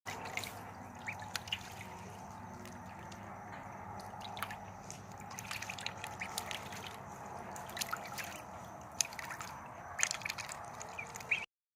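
Ducks splashing in shallow water: a steady watery hiss with many small, sharp splashes and drips, a few louder ones near the end.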